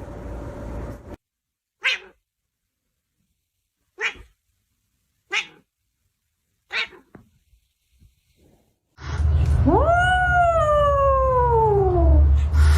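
A cat's long meow, rising quickly and then falling slowly over about two and a half seconds, over a loud low rumble. Before it come four short, sharp sounds about one to two seconds apart.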